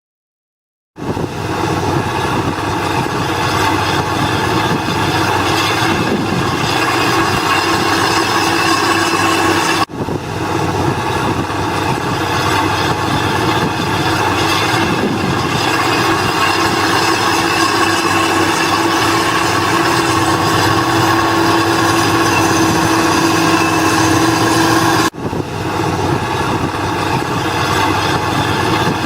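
Heavy earthmoving machinery, such as a crawler bulldozer, running steadily under load, with engine drone and high, ringing tones of the kind that steel tracks make. The sound starts about a second in and drops out briefly twice, near 10 and 25 seconds.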